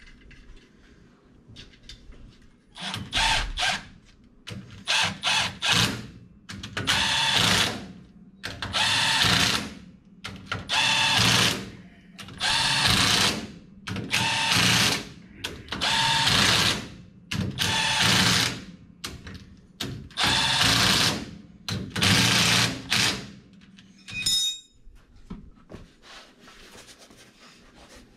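A handheld power tool run in about a dozen bursts of a second or so each, with short pauses between, stopping a few seconds before the end.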